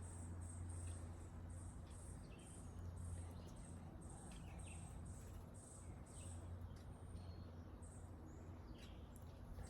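Faint woodland ambience: short, high-pitched chirps repeating about twice a second, with scattered bird calls, over a low steady hum.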